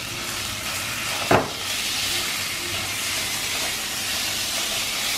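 Marinated minced beef and garlic sizzling in hot oil in a frying pan while being stirred, the hiss growing stronger about a second and a half in. One sharp knock stands out just before that.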